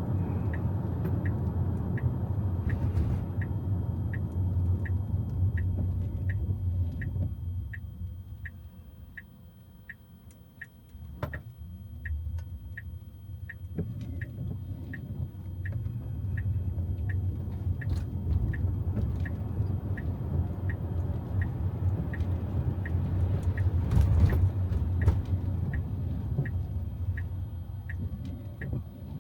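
Tyre and road rumble inside a Tesla's cabin on wet road, with the turn-signal indicator ticking about twice a second. The rumble fades for several seconds about a third of the way in, then builds again.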